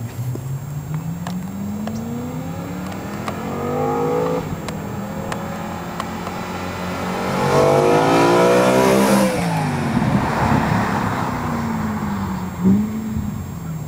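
BMW E92 M3's 4.0-litre V8 through a Borla rear-section exhaust, revved up twice: a climb in the first few seconds, then a longer, louder one that falls back quickly about nine seconds in. It settles to a steady low note, with one short blip of the throttle near the end.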